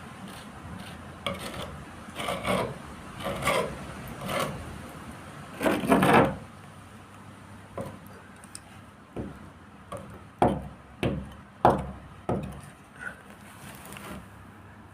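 Repeated hand-worked rubbing strokes on a boat hull: longer strokes about once a second at first, then shorter, sharper ones.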